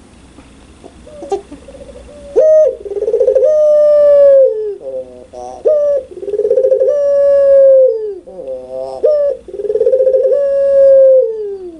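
Puter pelung dove (domestic ringneck/barbary dove) cooing loudly: three long calls, each a short opening note followed by a long rolling coo that slides down in pitch at the end.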